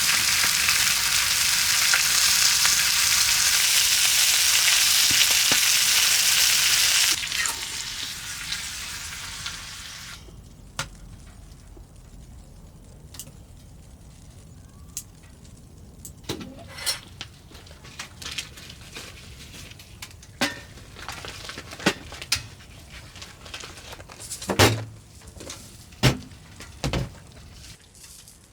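Food sizzling loudly in a hot pan, cutting down sharply about seven seconds in and fading away over the next few seconds. Then scattered light clicks and taps, like utensils on cookware.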